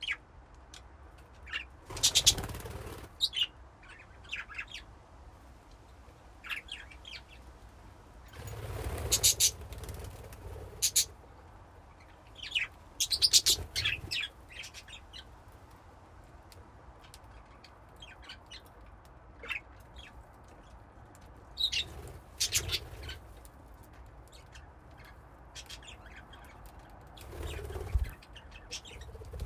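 Budgies chirping in short, scattered calls, with about five louder bursts of wing flapping spread through.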